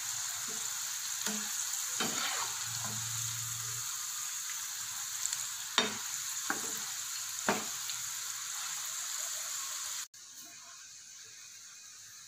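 Gram-flour-coated okra strips deep-frying in hot oil, a steady sizzle, with a few sharp clicks of a metal slotted spoon stirring them in the pan. The okra has turned golden and is nearly crisp. About ten seconds in, the sizzle drops suddenly to a fainter level.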